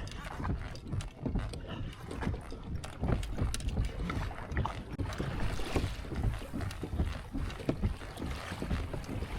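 Wind rumbling on the microphone and water against a kayak hull, with many small irregular clicks and knocks.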